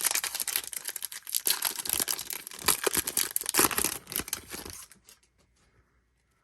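An O-Pee-Chee Platinum card pack's wrapper being torn open and crinkled by hand, a dense crackling that stops about five seconds in, followed by a few faint ticks.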